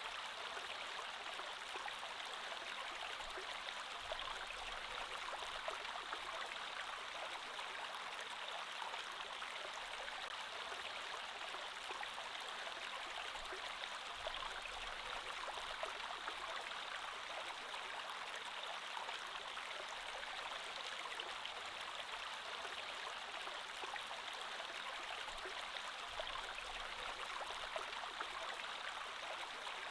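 Creek water flowing steadily, an even rush of moving water with small scattered splashes and no change in level.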